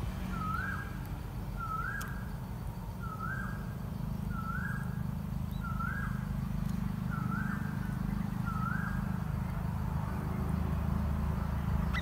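A bird calling: a short whistled note that dips and then rises to a brief held pitch, repeated evenly about every 1.3 seconds, seven times, stopping about three-quarters of the way through. A steady low rumble runs underneath.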